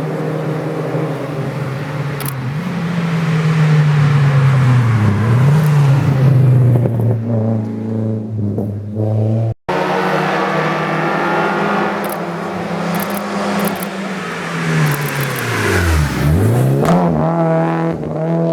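Engines of race-prepared Renault hillclimb cars at full throttle, revving up and falling back through the gears. About halfway through, the sound cuts abruptly to a second car. Near the end its engine note drops steeply and then climbs again.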